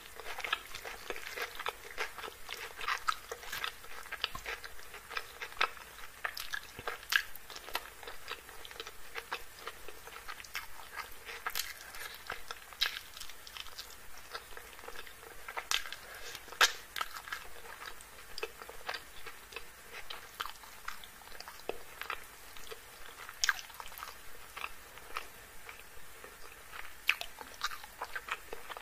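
Close-miked chewing and wet mouth sounds of someone eating chicken curry and rice, with many sharp, irregular smacks and clicks.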